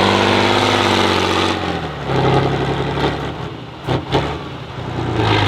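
Truck trial special's engine held at high revs, its pitch sliding down about one and a half seconds in to a lower, uneven run. Two sharp knocks come just before four seconds in.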